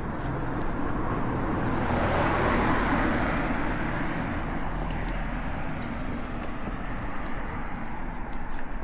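Road traffic: a vehicle passing, its tyre and engine noise swelling to a peak about two to three seconds in and then fading into the steady hum of the street, with light footsteps ticking over it.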